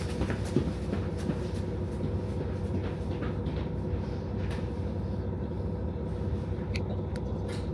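KiHa 40 diesel railcar's engine idling steadily while the train stands, a constant low hum with a few small clicks and knocks.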